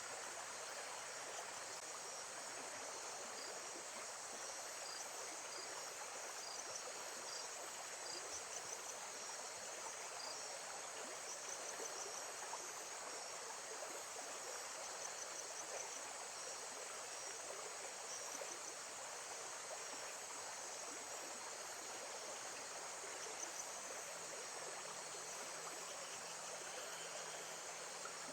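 Nature ambience: steady water flow with crickets chirping in high, repeating trills over it.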